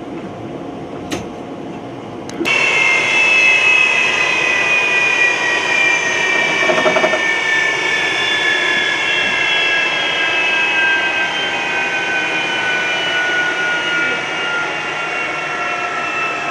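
Jet engine running loud, starting abruptly about two and a half seconds in after a quieter hum and a couple of clicks. Its high turbine whine falls slowly and steadily in pitch as the engine spools down.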